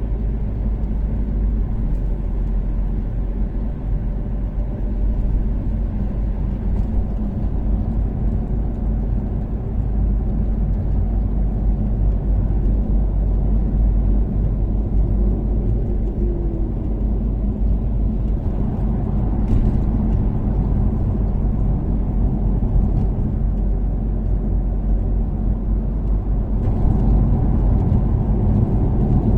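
Toyota Caldina's 3S-GTE turbocharged four-cylinder engine running steadily at expressway cruising speed, with a deep road and tyre rumble underneath. The noise grows a little louder about ten seconds in and again near the end.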